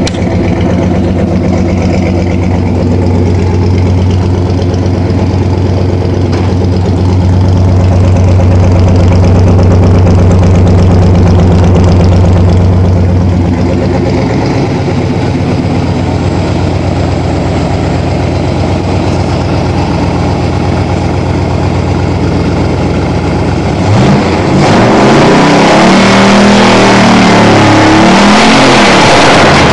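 Freshly rebuilt Chevrolet 350 Vortec V8 running just after starting, settling into an idle that rises and falls. Near the end it is revved several times by hand at the carburetor throttle linkage.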